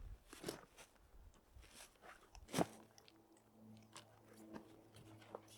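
Irregular crunching and snapping of dry twigs and leaf litter on a woodland floor, with one louder snap about halfway through. A faint steady hum comes in just before the middle.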